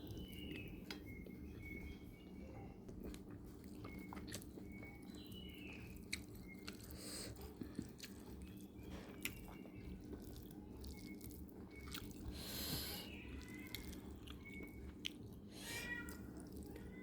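Faint close-up chewing and mouth clicks of someone eating fried fish, over a steady low hum.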